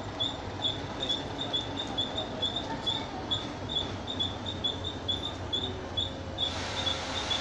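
A bird chirping over and over, short high chirps at about three a second, above the low rumble of a distant WDM2 diesel locomotive idling and moving slowly while shunting.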